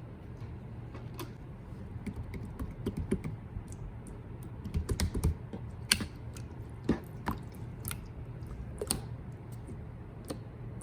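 Clear pink slime being squeezed and stretched by hand, giving irregular sticky clicks and pops, with a quick run of them about five seconds in.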